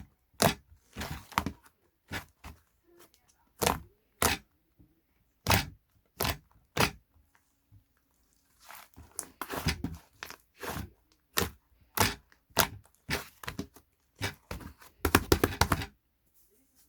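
A series of sharp clicks, cracks and knocks at irregular intervals, with quiet gaps between them and a quick run of clicks close together near the end.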